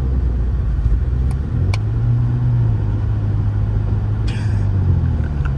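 BMW 335i's turbocharged straight-six running steadily under throttle, heard from inside the cabin, while the car struggles for traction in snow; the engine note rises a little about two seconds in.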